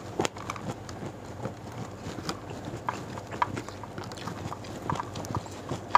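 Close-up eating sounds: chewing and lip smacks as rice with sambal and raw vegetables is eaten by hand, heard as irregular short wet clicks.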